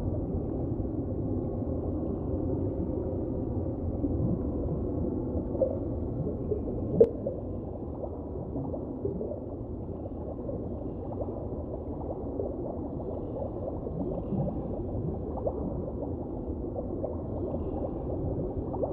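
Muffled, low water ambience as heard underwater: a steady bubbling and gurgling wash with small scattered pops and one sharp click about seven seconds in.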